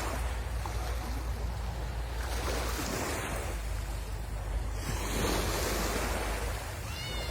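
Sea waves breaking and washing up the shore, swelling in surges every few seconds, over a steady low rumble of wind on the microphone.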